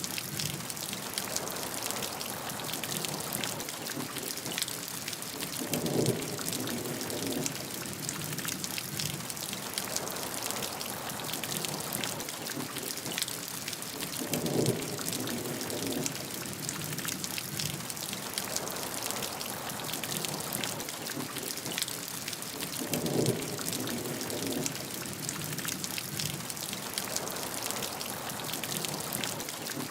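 Steady heavy rain: a dense hiss of drops pattering on a surface. A short, low swell of sound returns about every eight to nine seconds.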